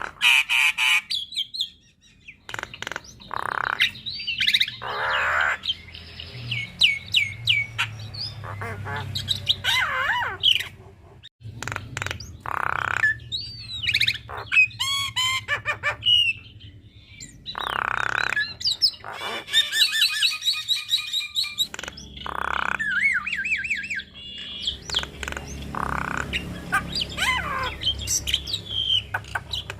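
Javan myna (jalak kebo) singing a long, varied song: rapid runs of whistled notes that slide up and down, mixed with harsh squawks and chirps.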